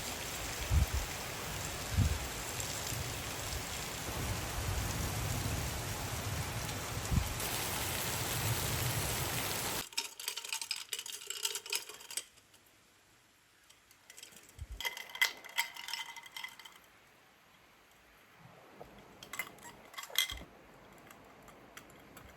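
A steady rushing noise with a few dull thumps stops abruptly about ten seconds in. Scattered light clinks and taps follow in three short clusters.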